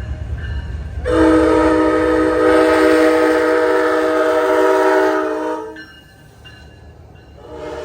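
Diesel passenger locomotive's multi-chime air horn: one long blast starting about a second in and holding for about four and a half seconds, then a short toot near the end, over the low rumble of the passing train, which fades after the long blast.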